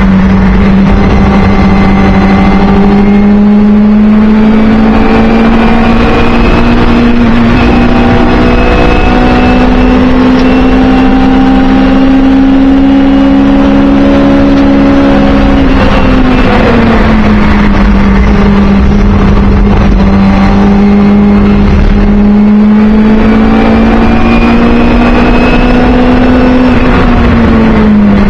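Singer Chamois race car's rear-mounted Hillman Imp four-cylinder engine heard from inside the cabin, running loud at high revs. Its note climbs slowly, falls away about sixteen seconds in, then climbs again and falls once more near the end.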